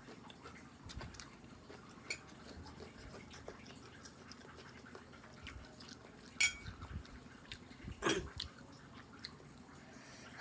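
Quiet close-up chewing and mouth sounds of a person eating fried instant noodles, with scattered small clicks. There is a sharp click about six and a half seconds in and a short, louder mouth or breath noise about eight seconds in.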